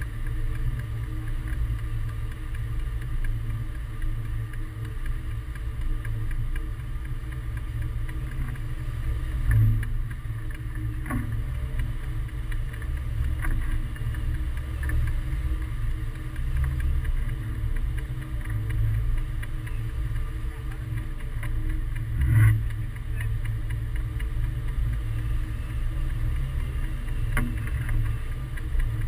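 Wind rumbling on the microphone in hang-glider flight: a steady, low buffeting with stronger gusts about ten seconds in and again about twenty-two seconds in.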